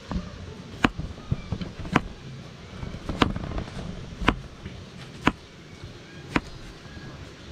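A series of sharp taps or clicks, evenly spaced at about one a second, over a steady low background hiss.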